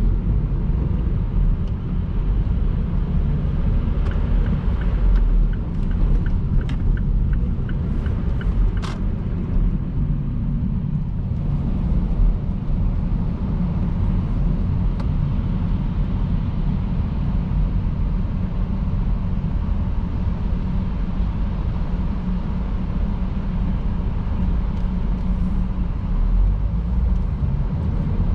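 Car driving at speed on a wet motorway: steady low rumble of tyres and road noise, with a few light ticks between about four and nine seconds in.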